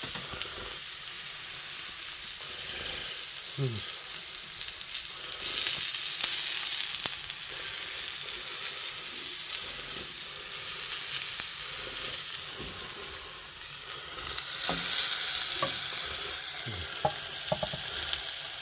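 Steak sizzling in a frying pan, a steady high hiss that swells louder about a third of the way in and again near the end, with occasional light clicks.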